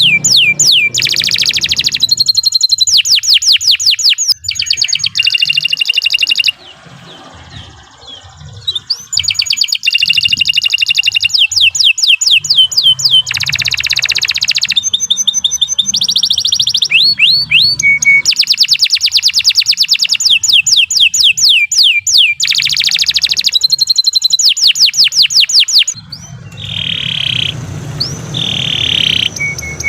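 Domestic canary singing a long, loud song of fast rolling trills, each a rapid run of identical high notes, one phrase after another with brief breaks between them.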